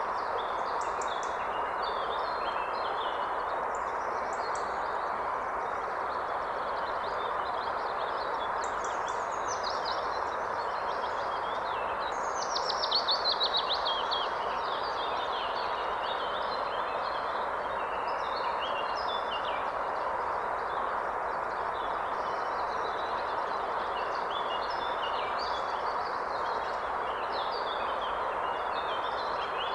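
A river or stream rushing steadily, with several songbirds singing over it. About twelve seconds in, one bird gives a louder, rapid trill that falls in pitch.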